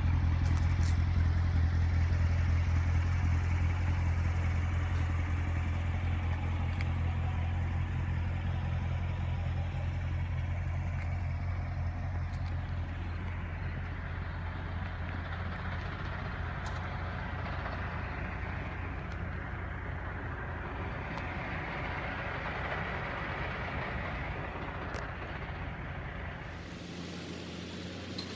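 Vehicle engine idling with a steady low hum that slowly fades, then stops abruptly near the end.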